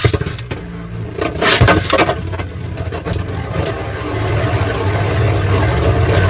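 Beyblade spinning tops whirring in a plastic stadium right after launch, with several sharp clacks as the tops clash into each other.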